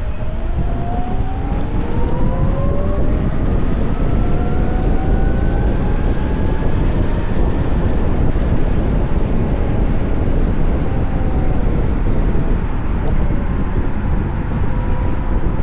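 Wind and road noise on a moving VMoto Stash electric motorcycle, with the electric motor's whine rising in pitch over the first several seconds as the bike accelerates, then levelling off.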